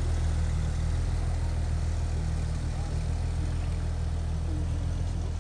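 The Zimmer Quicksilver's Pontiac Fiero engine idling steadily, a smooth low hum.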